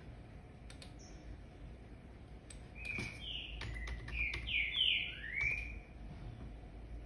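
A bird chirping: a quick run of about seven short, mostly falling chirps, about three to six seconds in, with a few faint clicks around them.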